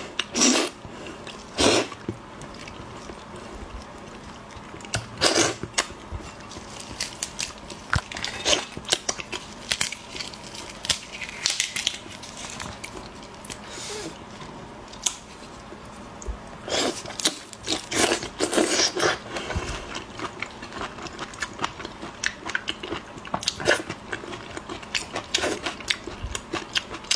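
Close-miked eating sounds: a person biting, chewing and smacking on shrimp, with irregular crunches of shell.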